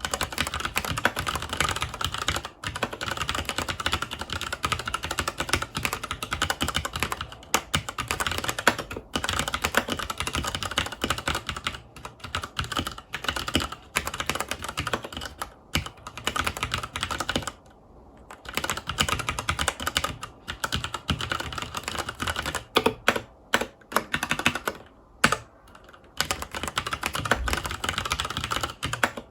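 Continuous fast typing on a FILCO Majestouch 2 Hakua tenkeyless mechanical keyboard with Cherry MX Brown switches: rapid key clicks and clacks, broken by brief pauses now and then.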